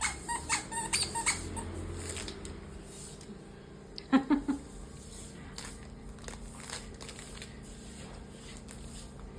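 Squeaky toy being squeezed: a quick run of short, high squeaks in the first second and a half, then a louder, lower cluster of squeaks about four seconds in.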